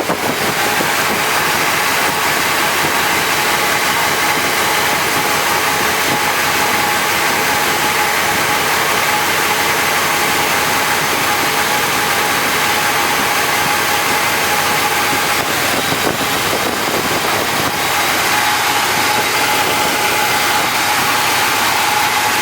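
1967 Oldsmobile Delmont 88's V8 idling steadily just after a cold start, its first run after sitting about a year.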